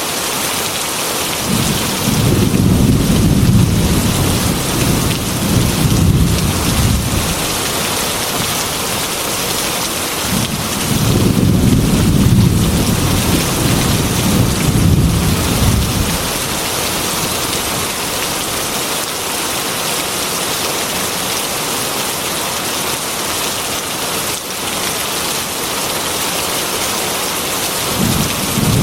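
Heavy rain beating on a glass window in a steady hiss, with two long rolls of thunder of about five seconds each, and a third starting near the end.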